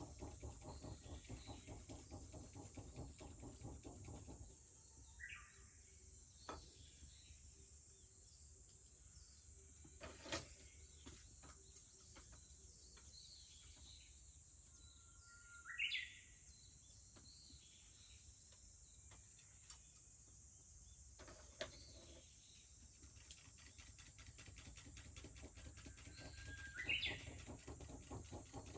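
A Japanese bush warbler singing three times, each song a held whistle breaking into a quick rising flourish, over the faint crackle of a wood fire with a few sharp pops.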